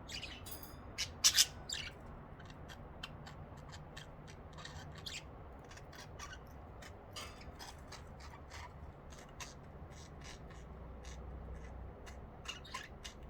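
Pet budgerigars giving scattered short, sharp chirps and squawks, with two loud ones just over a second in.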